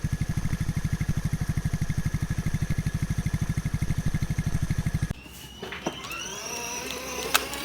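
Children's Lightning McQueen ride-on motorcycle making a rapid, even putt-putt engine-like pulsing, about seventeen beats a second, that stops abruptly about five seconds in.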